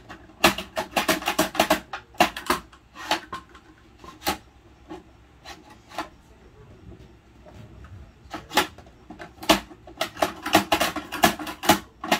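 Plastic clicks and knocks of a toy garbage truck and its toy bins being handled: quick clusters of clatter at the start and again near the end, with single knocks between.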